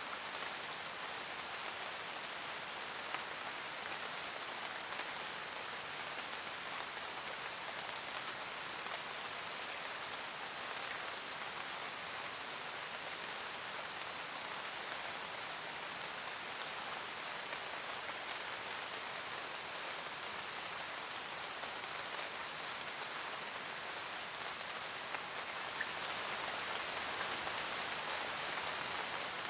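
Steady rain falling in a forest, a dense patter of raindrops on leaves and the ground with occasional single louder drops. The rain grows a little heavier near the end.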